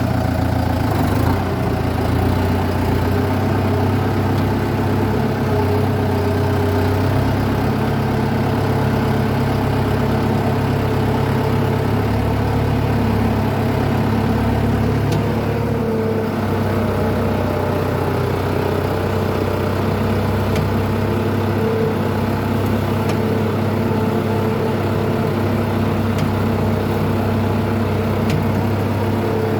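Kubota M9540 tractor's diesel engine running steadily as it pulls a ripper through the soil.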